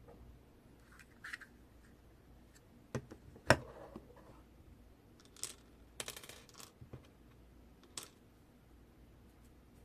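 Small objects being handled: a few scattered clicks and taps, one sharper knock about three and a half seconds in, and a short rustle around six seconds.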